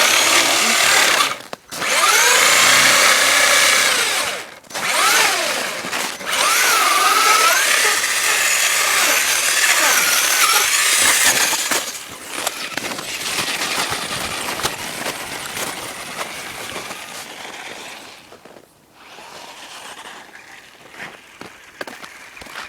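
Radio-controlled toy truck's motor whining in bursts of throttle, its pitch rising and falling, with short cut-offs near the start. It goes on more quietly for the second half.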